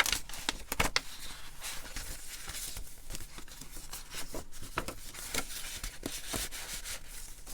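Paper pages of a handmade junk journal being handled and turned: a run of rustles and crinkles with some sharp clicks, the loudest right at the start.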